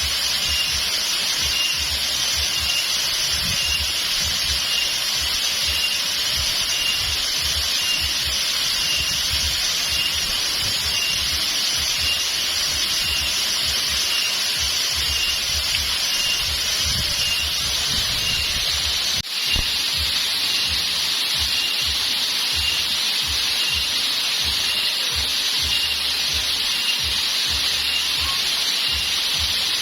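Steady rush of flowing water at a waterfall, with a faint high chirp repeating evenly a little more than once a second. The sound drops out for a moment about 19 seconds in.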